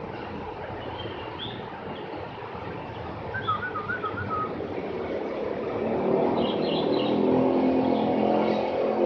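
A small songbird, the Javan grey-throated white-eye (opior jawa), gives short chirps: a quick run of notes about three and a half seconds in and a few higher notes near seven seconds. They sit over a steady background noise that grows louder in the second half.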